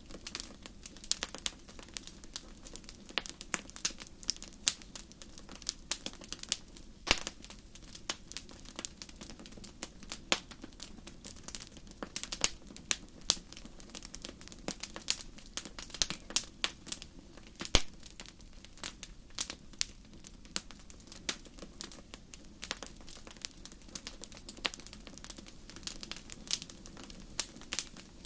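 Wood fire burning in a fireplace: irregular sharp crackles and pops over a low steady hiss.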